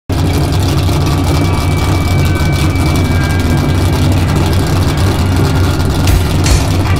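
Drift car engine idling steadily with a low, pulsing exhaust note, with two brief thumps near the end.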